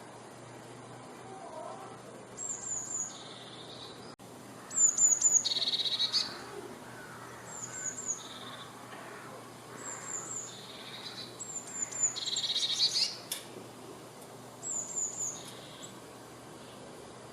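A tit singing: repeated short phrases of three quick, high, down-slurred notes, several followed by a lower trill, about every two to three seconds.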